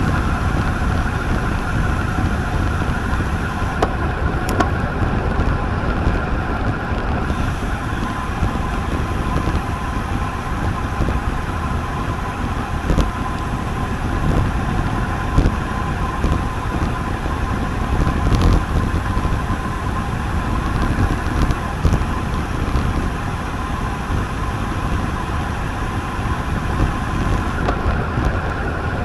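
Wind rushing over the microphone and the road noise of a road bike rolling on pavement, a steady low rush with a faint hum, broken by a few small clicks.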